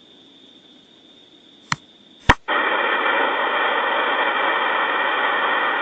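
Two sharp clicks about half a second apart, then a loud, steady static hiss that comes on abruptly and holds.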